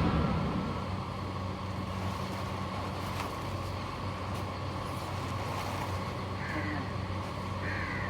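A vehicle engine running steadily, a low even hum, as music fades out in the first moment.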